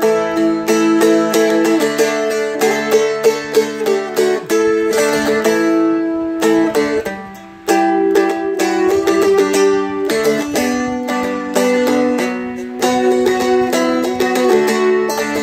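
Seagull Merlin M4 four-string dulcimer being strummed and picked, melody notes changing over held lower notes, with a brief drop in volume about seven seconds in.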